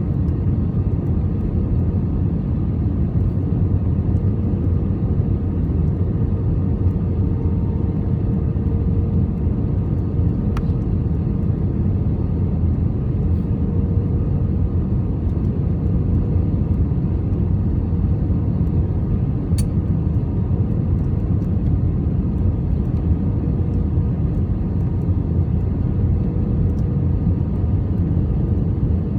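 Airliner cabin noise during landing: a steady, loud rumble of the jet engines and rushing air, with a faint steady hum over it.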